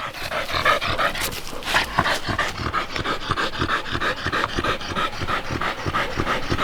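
Dog panting hard and fast in a quick, even rhythm: heavy breathing from overheating and exhaustion after a long run.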